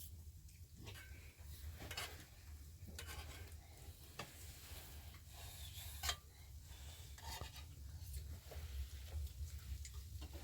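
Scattered light clicks and scrapes of utensils against dishes and pots, over a steady low hum.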